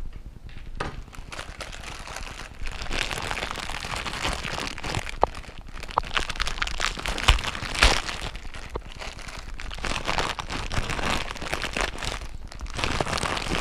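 Plastic instant-ramen wrapper crinkling and crackling as it is handled and worked open, with scattered sharp clicks.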